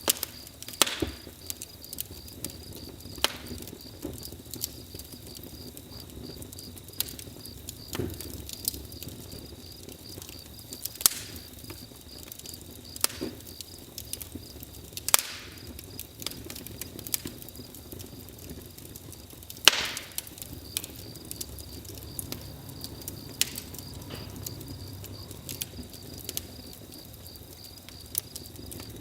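Campfire crackling, with irregular sharp pops of burning wood scattered through it. Crickets chirp in a steady high pulsing trill behind the fire.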